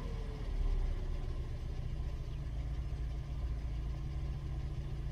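Fiat Panda's petrol/LPG engine idling steadily, heard from inside the cabin. It is still running on petrol while the LPG system has been asked to switch over and has not yet changed.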